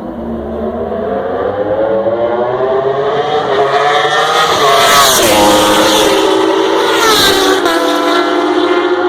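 Racing motorcycles accelerating hard towards the microphone, the engine pitch climbing for several seconds, then passing close about five seconds in with a sudden drop in pitch; another bike passes just after seven seconds with a second drop.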